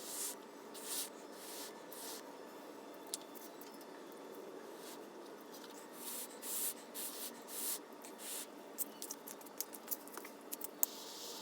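Repeated short scraping strokes, then a quick run of sharp clicks near the end.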